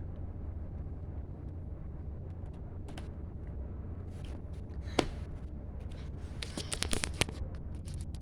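Lego bricks being handled and pressed together: faint plastic ticks, one sharp click about five seconds in, and a quick cluster of clicks near the end, over a steady low hum.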